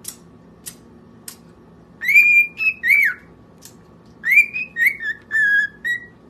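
Parrot whistling a short tune phrase of clear high notes, a held note, a few short ones and a falling note, twice with a pause between, after a few faint clicks.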